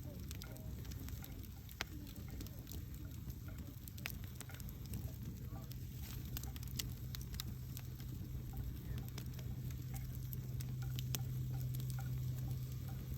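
Wood campfire burning, with irregular crackles and sharp pops from the burning wood over a low rumble. A steady low hum grows stronger partway through.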